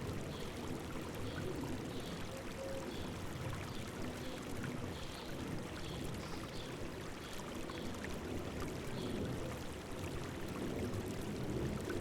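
River water babbling and rushing over rocks, a steady low splashing flow, with a small bird giving a faint high chirp about once a second.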